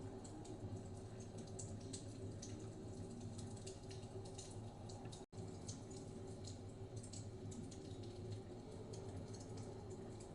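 Wood fire crackling, with irregular sharp pops and ticks over a steady low rumble. The sound cuts out for an instant about five seconds in.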